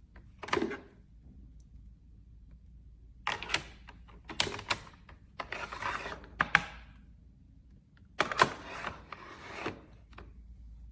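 Handling noise: a single knock, then two clusters of sharp clicks, taps and rattles a few seconds apart, over a faint low hum.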